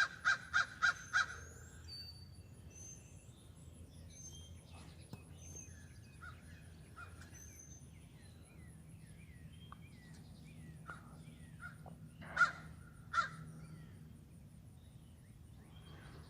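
Crows cawing: a quick run of about five caws at the start, then two more caws about twelve and thirteen seconds in, with small birds chirping faintly in between.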